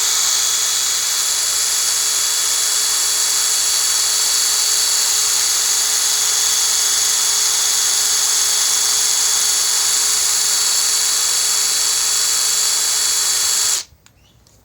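Cordless drill spinning a converted tire inflator's piston pump, a steady high-pitched whine, as a bike tire is pumped up. The drill stops suddenly about a second before the end, once the tire is hard.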